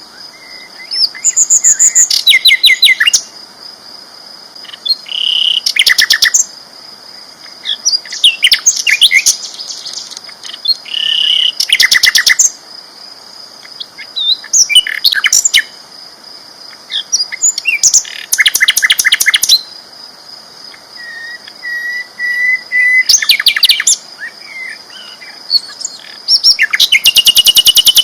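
Sikatan londo flycatcher singing loud, repeated song phrases of fast trills and clear whistles, one every two to three seconds. A steady high-pitched tone runs underneath throughout.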